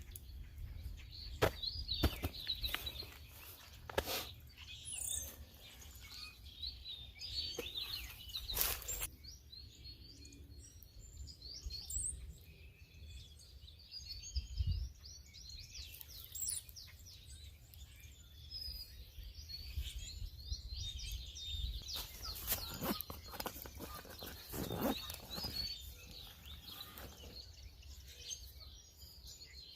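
Wild birds chirping and calling in short, repeated notes, with scattered clicks and knocks and a low rumble underneath.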